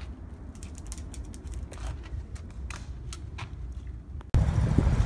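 Scattered light clicks and taps over a low background. About four seconds in, the sound cuts suddenly to a car's engine running, heard from inside the cabin and much louder.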